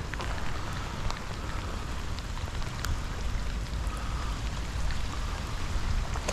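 Steady rain falling, with scattered sharp ticks of drops over a low rumble.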